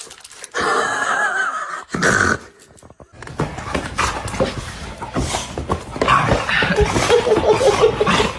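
A dog making sounds: a high, wavering whine about a second long, then, after a short pause, clattering and scuffling with a lower wavering sound near the end.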